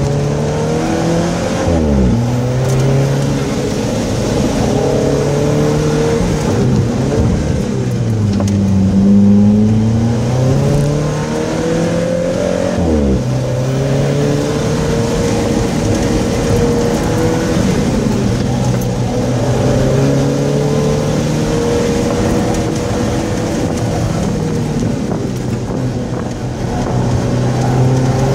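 Alfa Romeo 4C's turbocharged 1.75-litre four-cylinder engine pulling hard around a race track. Its pitch climbs and falls as the car accelerates and slows, with sharp drops about 2 and 13 seconds in.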